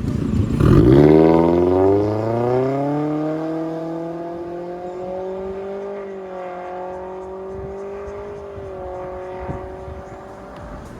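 Toyota Corolla Altis E170's 2ZR-FE 1.8-litre inline-four through an MS-R valved exhaust muffler, accelerating. The note dips briefly in pitch, climbs quickly over the first couple of seconds, then rises more slowly and levels off as the sound gradually fades.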